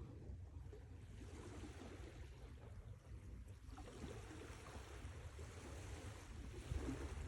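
Sea waves washing in: one surge of surf swells about a second and a half in and eases off near the end, over a steady low rumble.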